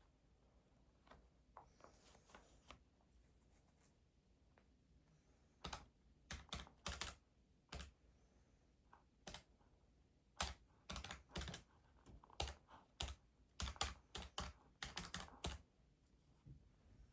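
Keys being pressed in quick, irregular runs of sharp clicks, starting about six seconds in and stopping near the end, with short pauses between the runs.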